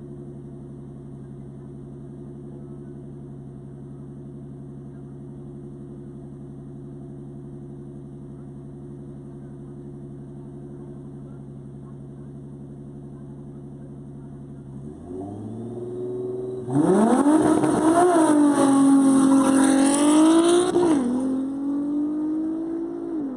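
Six-cylinder turbo Audi A3 drag car idling steadily at the start line, then revving up about fifteen seconds in and launching hard. The engine note climbs and drops at two upshifts as the car accelerates away, then fades down the strip.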